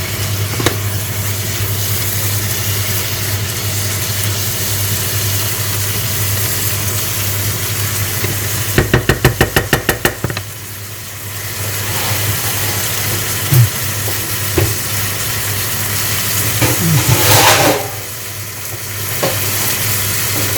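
Fajita chicken frying in a pan, a steady sizzle over a low hum. About nine seconds in there is a quick run of about ten rapid taps, followed later by a few short knocks and a brief louder scrape of stirring.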